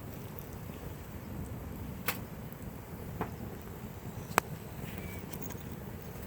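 Wood campfire burning with a low steady rush and three sharp pops, the loudest about four seconds in.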